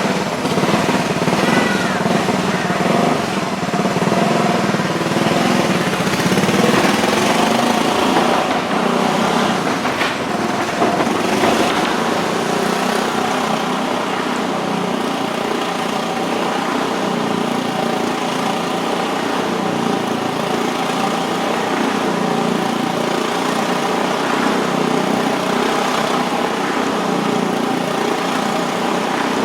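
Motorcycle engine running steadily at high revs as it circles the vertical wooden wall of a Wall of Death motordrome.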